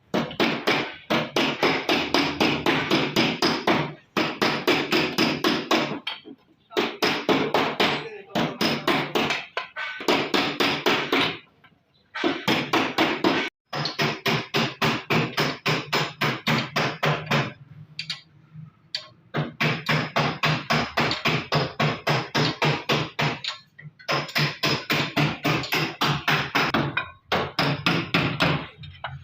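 Rapid hammer blows on metal, about seven a second, in runs of a few seconds with short pauses between them, each blow ringing.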